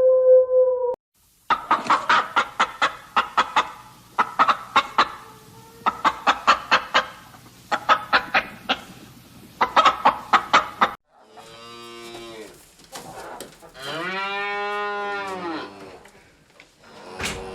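A howl ends about a second in. Chickens then cluck in rapid bursts of short calls for about nine seconds, followed by a cow mooing twice in long, pitch-arching moos.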